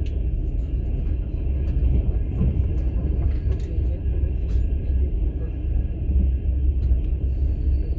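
Steady low rumble of a moving passenger train, heard from inside a sleeper carriage, with a few faint, irregular clicks and rattles.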